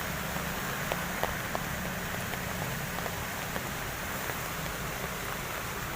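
Heavy rain falling steadily, an even hiss with scattered small ticks of drops striking surfaces.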